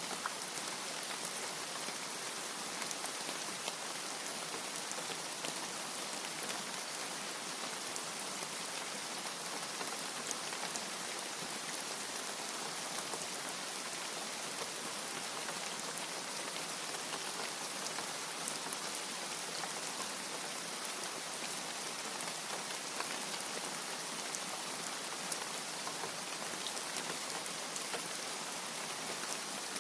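Steady rain falling: an even hiss with scattered sharp ticks of individual drops, and no thunder.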